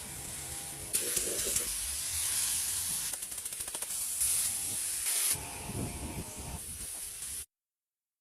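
Spraying hiss in several bursts of a few seconds each, cutting off abruptly to silence near the end.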